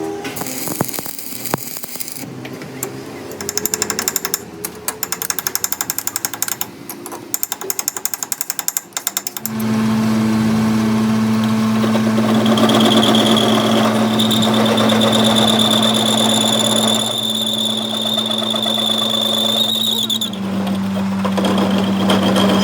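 Metal clicking and rattling, then a lathe starts and runs with a steady hum and a high whine. Its pitch drops slightly near the end.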